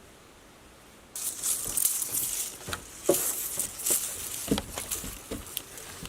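Faint steady hiss, then about a second in a sudden start of loud rustling and crackling with many scattered sharp snaps.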